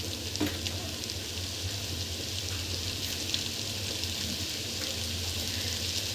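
Stir-fried noodles and vegetables sizzling faintly in a hot steel kadhai, with occasional small crackles over a steady low hum.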